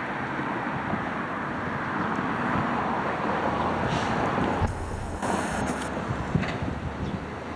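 Garbage truck engine running steadily during curbside collection, with wind noise on the microphone.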